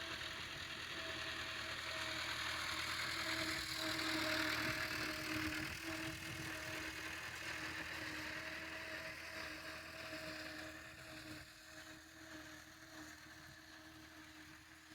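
Tractor engine running steadily while pulling a laser land leveler, growing louder to a peak about four seconds in and then fading.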